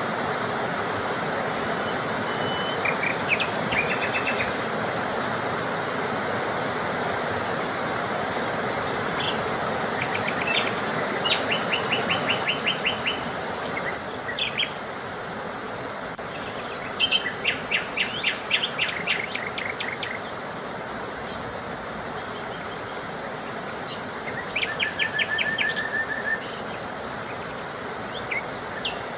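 Steady rush of flowing water, with songbirds calling over it in several bouts of fast trilled chirps and a few short high notes.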